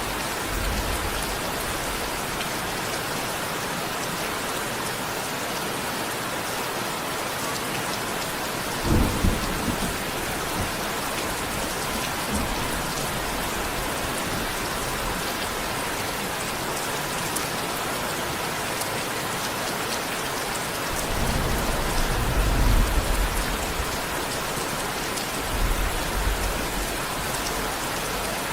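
Steady rain falling, with low thunder rumbles: a short one about a third of the way in, a longer rolling one from about two thirds in, and a brief one near the end.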